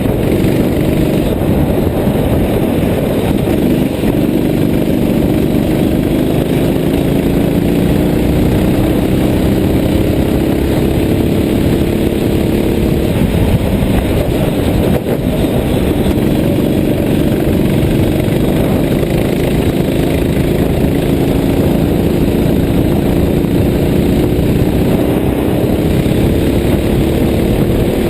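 Vehicle engine running steadily at cruise under a heavy rumble of wind and road noise, its pitch drifting slowly up and down.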